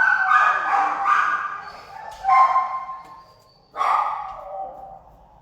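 Shelter dogs barking in three loud outbursts, the barks drawn out into long pitched tones that fade after each burst.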